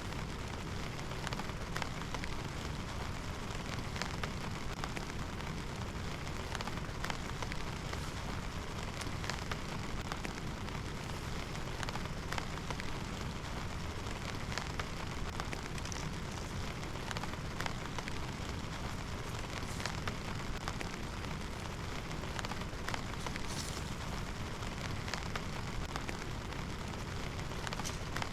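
Heavy rain falling steadily, with many separate drops ticking sharply close by.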